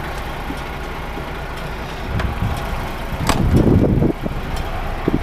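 Lorry's diesel engine idling steadily, with one sharp knock about three seconds in followed by a few low bumps.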